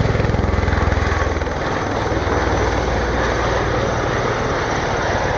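Helicopter sound effect: rapid rotor chop over a steady low engine hum, cutting off suddenly near the end.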